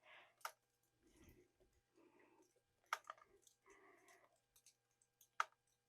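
Near silence broken by three faint, sharp clicks and a few soft rustles; no engine is running.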